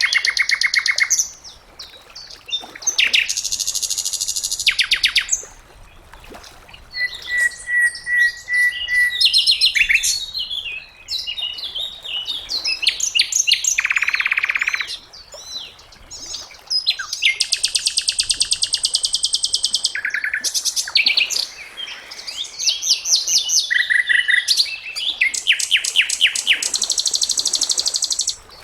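Sikatan londo songbird singing: a run of high, rapid trilling phrases, each one to three seconds long, separated by short pauses.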